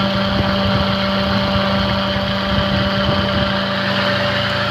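The Toyota Corolla Altis's 1.6-litre 16-valve VVT-i four-cylinder engine idling steadily, heard from the open engine bay.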